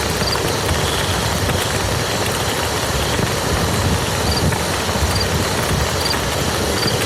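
Steady rain falling on a muddy field: a dense patter of drops over a low rumble.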